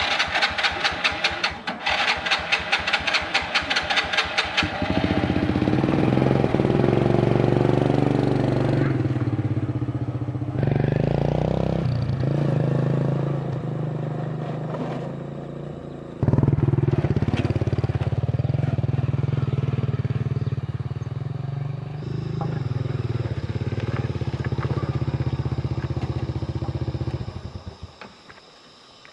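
A small engine starting with a rapid clatter, then running steadily and changing speed a few times before it stops near the end.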